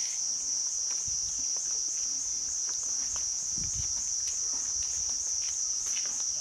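Steady high-pitched insect chorus, a continuous shrill drone with a slight pulsing, with a faint low rumble about three and a half seconds in.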